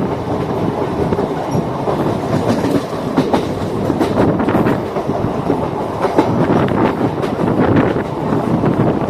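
MEMU electric train running along the track, its wheels clattering over rail joints as a steady loud rumble with irregular clicks.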